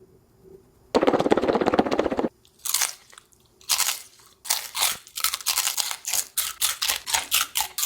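Person biting and chewing a mouthful of crunchy Takis rolled tortilla chips coated in hot sauce and powder. It starts about a second in with a dense crackling crunch lasting over a second. Separate loud crunches follow, settling into steady chewing of about two crunches a second.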